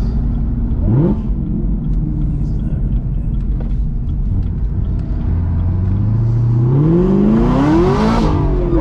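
Modified 1,000 hp Camaro ZL1's supercharged V8, heard from inside the cabin. It rumbles along with a brief rise in revs about a second in. From about five and a half seconds it pulls hard, its pitch climbing steadily until a sudden drop near the end as it shifts up, then climbing again.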